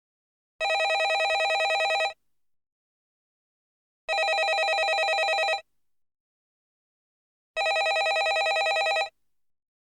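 Landline telephone ringing: three rings of about a second and a half each with a rapid trill, separated by silent pauses of about two seconds.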